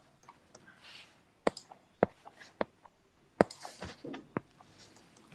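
Scattered, irregular clicks of computer input, about seven spread over a few seconds, as values are entered during a calculation.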